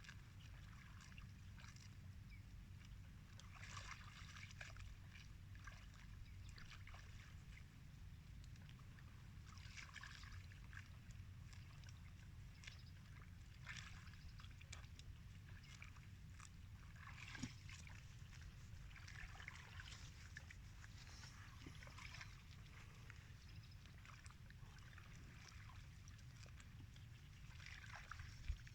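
Faint sounds of buffaloes feeding: scattered bouts of crunching and wet sloshing of feed over a steady low hum.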